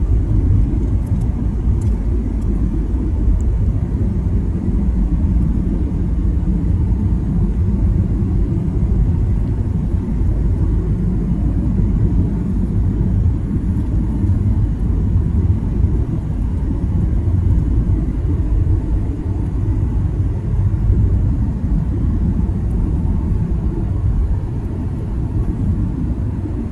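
Steady low rumble of a jet airliner's engines and airflow heard from inside the cabin during the descent for landing.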